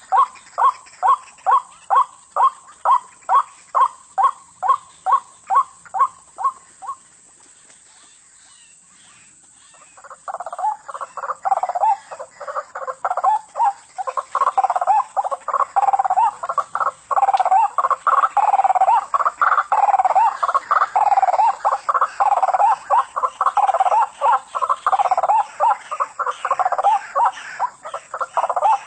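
White-breasted waterhen calling: a steady series of repeated croaking notes, about two or three a second, for the first seven seconds. After a pause of about three seconds it resumes as a denser, overlapping run of calls that lasts to the end.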